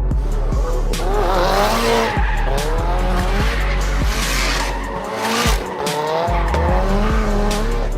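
Car tyres squealing in long, wavering screeches, as in drifting or skidding, over bass-heavy music.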